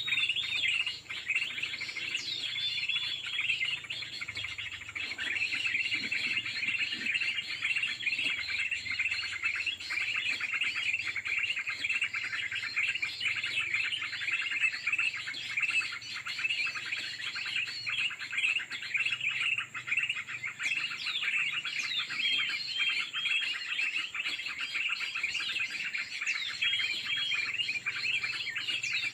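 Many small birds chirping in a dense, continuous twittering chorus, with short looping notes repeated again and again over it.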